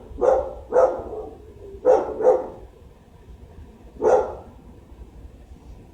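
A dog barking five times: two quick pairs of barks, then a single bark about four seconds in.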